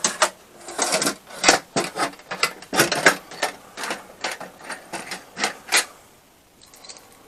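Metal clamps being handled and fitted: a quick irregular run of clicks and clattering knocks, a few a second, that stops about six seconds in.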